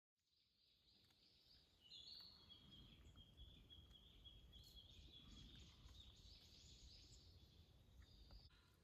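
Faint birds singing, with high warbling calls that run on over a low rumble of ambient noise, fading in at the start.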